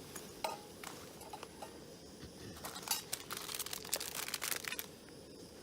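Plastic food packet crinkling and rustling as it is handled, a few scattered crackles at first, then a dense run of crinkling in the second half.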